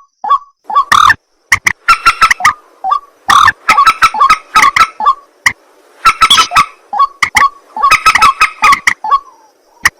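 White-breasted waterhen (ruak-ruak) giving its harsh, repeated croaking calls in quick clusters, with brief pauses between bursts.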